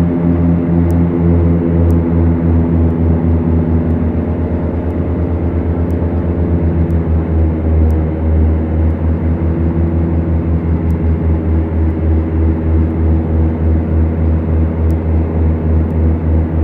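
Twin Lycoming piston engines and propellers of a Beechcraft Duchess running steadily, heard from inside the cabin. They make a throbbing beat from the two propellers turning at slightly different speeds; the beat quickens in the middle and slows again toward the end.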